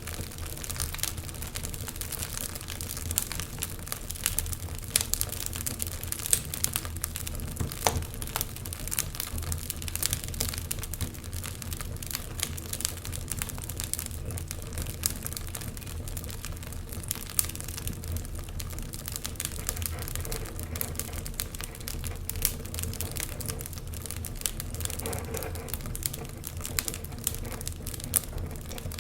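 Wood fire crackling, with many irregular sharp pops and snaps over a low steady hum.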